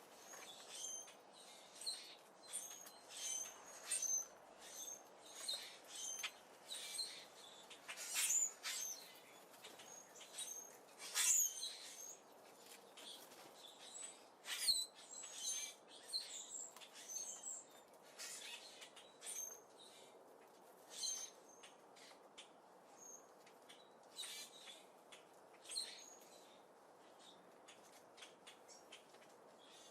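Small birds chirping: many short, high chirps, thick for most of the stretch and thinning out near the end.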